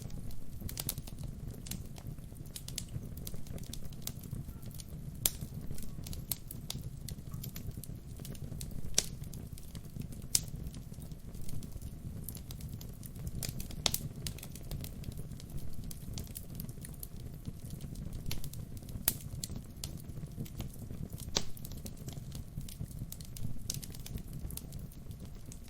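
Wood fire burning: a steady low rumble of the flames with irregular crackles and occasional sharper pops of the burning logs.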